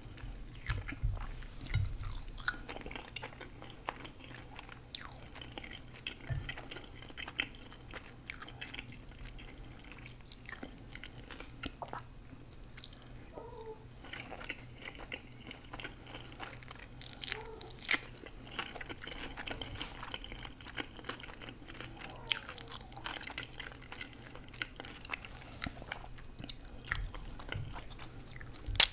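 A person chewing food close to the microphone, with irregular crunches and mouth clicks.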